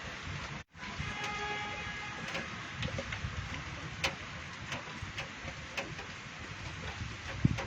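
Steady hiss of rain and wind in a stormy street, with scattered small ticks. The sound cuts out completely for a moment about a second in.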